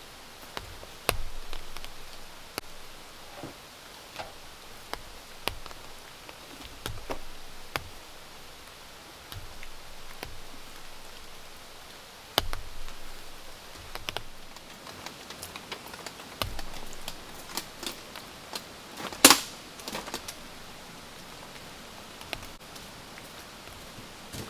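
Scattered small clicks and knocks, with one louder brief noise about 19 seconds in, over a steady hiss of rain.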